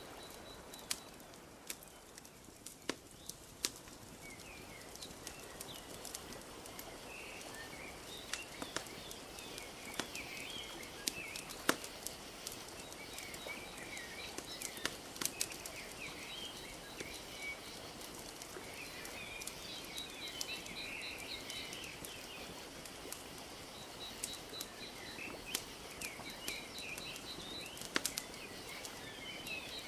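Wood fire crackling with frequent sharp pops, over a steady wash of gently lapping lake water. Small birds chirp and twitter through most of it.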